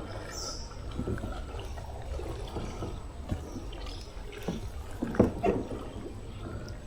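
Canoe drifting on a creek: water trickling and lapping at the hull, with a few light knocks against the canoe and a low steady rumble underneath.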